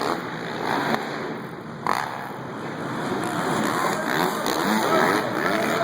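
Dirt bike engines revving up and down, with a sharp knock about two seconds in.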